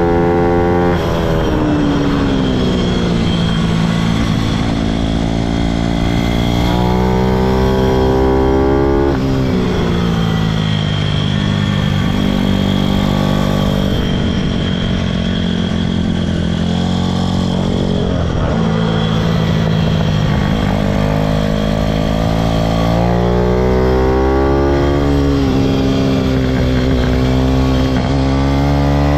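Pitom pit bike's single-cylinder four-stroke engine under hard riding, its pitch rising under throttle and falling again over and over, with sudden drops about 9, 14 and 23 seconds in as the rider lifts off or changes gear.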